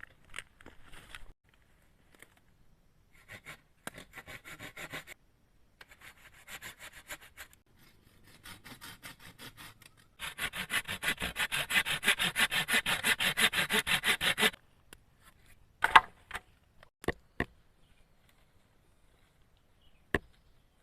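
Hand saw cutting through wood in several bouts of back-and-forth strokes, the longest bout quick, even and loudest, followed by a few sharp knocks near the end.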